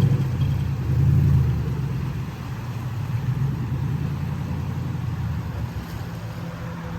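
A motor vehicle's engine running, a low hum that is loudest in the first second and a half, then fades and holds at a lower level.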